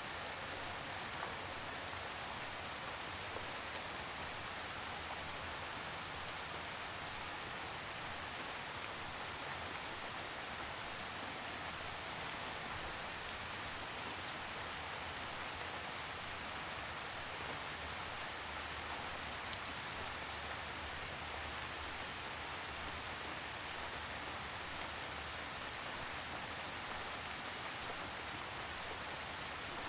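Steady gentle rain falling on a surface, an even hiss of drizzle with a few separate drop ticks standing out now and then.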